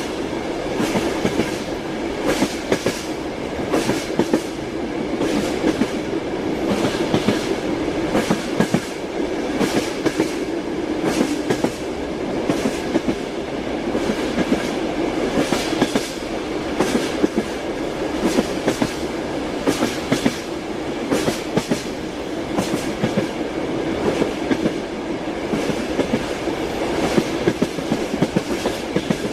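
Train wheels clattering over the rails inside a moving passenger carriage: a steady rumble with frequent sharp clicks throughout.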